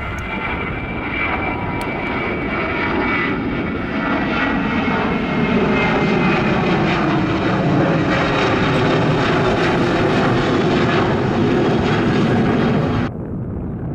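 Jet airliner passing close by, its engine roar building to a peak with whining tones that fall in pitch as it goes past. The roar cuts off abruptly about a second before the end, leaving wind noise.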